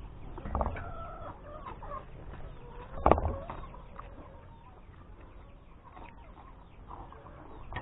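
Chickens clucking, with a sharp knock about three seconds in.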